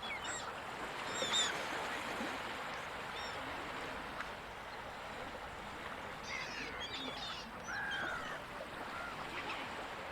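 Gulls calling in short squawks over a steady wash of ocean surf, with calls near the start, around a second in, and a busier cluster of several calls later on.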